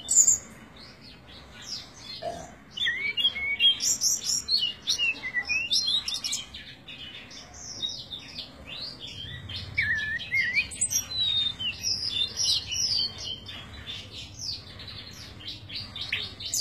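Small birds chirping and twittering in quick, sliding high notes, coming in busy clusters with quieter gaps between.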